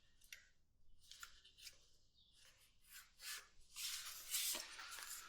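Faint handling noises while working on a motorcycle: a few scattered small clicks and ticks, then a longer scraping, rustling sound past the middle.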